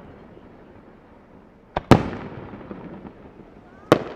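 Aerial fireworks shells bursting: two sharp bangs about two seconds apart. The first comes about two seconds in as a quick double crack; the second comes near the end. Each trails off over about a second.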